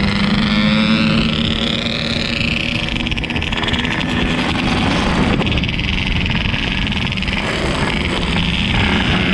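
Yamaha RX-King 135's two-stroke single-cylinder engine running under way, a steady drone whose pitch shifts with the throttle in the first couple of seconds.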